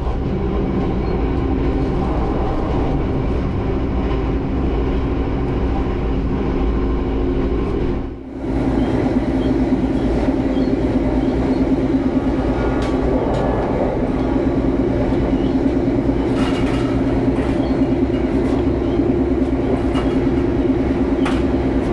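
Passenger train running at speed, heard inside the carriage: a loud, steady rumble of wheels on rails with a constant hum. It drops out briefly about 8 seconds in, then carries on with occasional light clicks and rattles.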